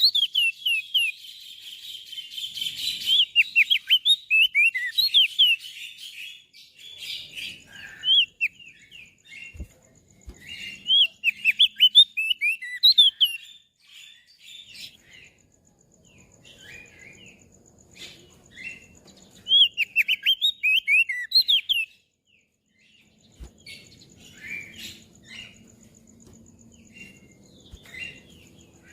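Crested white-eye (opior jambul) singing: rapid, high chirping and twittering phrases in several bursts, separated by short pauses.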